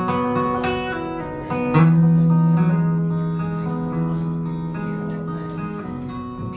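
Acoustic guitar playing a song's introduction: a few strummed chords, the last one, about two seconds in, left ringing and slowly fading.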